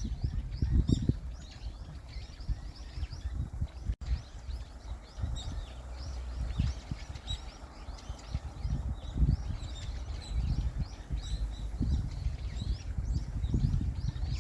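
Small birds chirping, a steady run of short, high calls several times a second, over an uneven low rumble.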